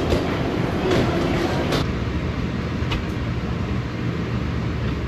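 Steady low rumble heard from inside a vehicle, with faint background voices and a few light clicks in the first two seconds.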